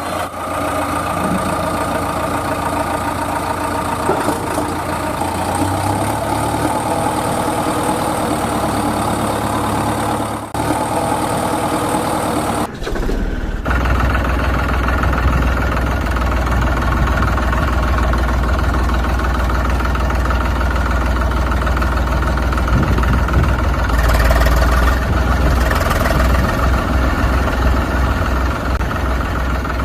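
Engine running steadily. About 13 seconds in the sound cuts to a deeper, louder engine running.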